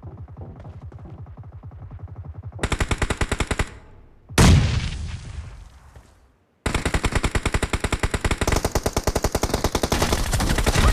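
Automatic gunfire from a video-game shooter: rapid, evenly spaced shots, fainter at first and louder from about two and a half seconds in. About four seconds in comes a single loud blast that dies away over a couple of seconds, then a moment's silence, then a long stretch of loud rapid fire.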